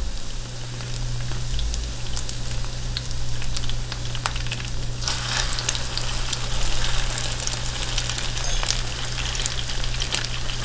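Egg-dipped bread slices frying in hot bacon grease in a cast iron skillet: steady sizzling with crackling spatter, which grows louder and busier about halfway through as more soaked slices go into the pan. A steady low hum runs underneath.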